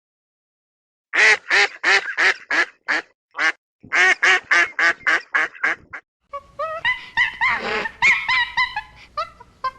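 Ducks quacking: two runs of rapid, evenly spaced quacks at about three a second, starting about a second in, then a looser jumble of overlapping calls from several birds.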